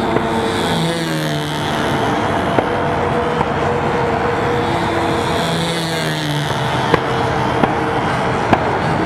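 Control-line model airplane's small engine running at high speed as the plane circles, its pitch rising and falling about once every four to five seconds as it comes round each lap. A few short sharp clicks over it.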